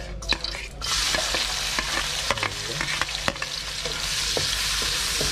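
Ginger and onion sautéing in hot oil. The sizzle swells about a second in, with clicks and scrapes from stirring in the pan.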